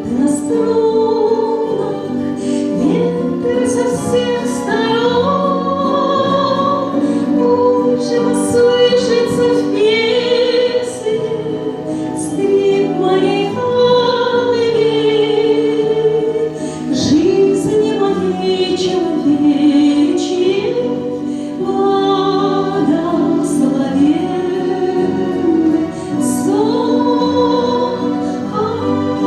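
A woman sings a slow song with wide vibrato, holding long notes over sustained instrumental chords.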